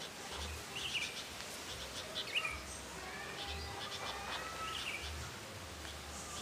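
Birds chirping, a few short high chirps with quick downward sweeps, over a patchy low rumble.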